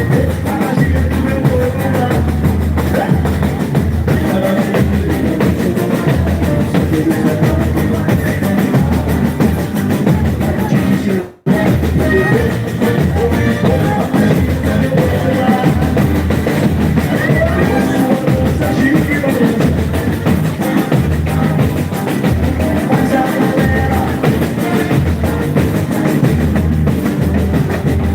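Live boi-bumbá toada played at full volume: a heavy, driving drum section pounding under amplified singing and instruments. The sound drops out for a split second about eleven seconds in.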